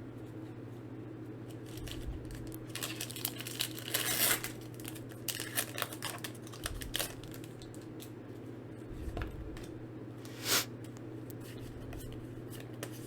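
Foil wrapper of a Pokémon trading-card booster pack being torn open and crinkled, loudest about four seconds in, with scattered crackles after and one more short rip about ten and a half seconds in.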